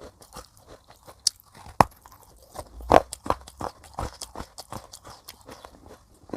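Crunching and chewing of pieces of baked clay pot, a run of irregular sharp crunches, with two louder bites about two and three seconds in.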